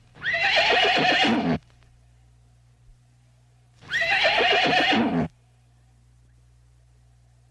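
Horse whinnying twice, each neigh about a second and a half long and falling in pitch at its end, with a faint steady hum between the calls.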